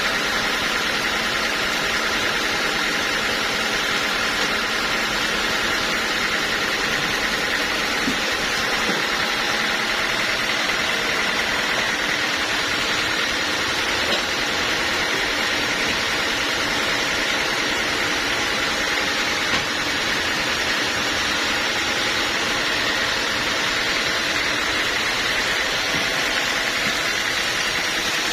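Sawmill machinery running steadily: a continuous, even mechanical drone with hiss that holds at one level throughout.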